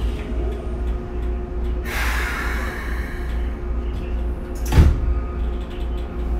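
Keikyu New 1000 series train with a Siemens inverter, heard from on board: a steady low rumble with a faint steady hum. A rush of hiss comes about two seconds in, and a sharp loud knock just before five seconds.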